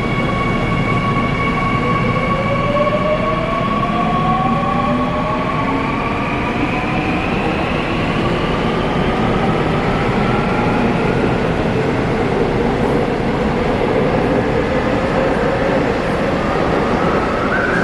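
Seoul Metro Line 2 subway train running, heard from inside the car: a steady rumble with the electric motors' whine rising in pitch as the train picks up speed, then rising again near the end.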